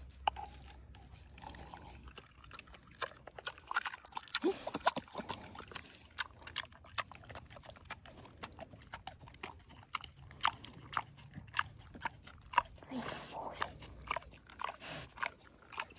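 An animal chewing and crunching food, with many short crisp clicks and a few brief squeaky calls.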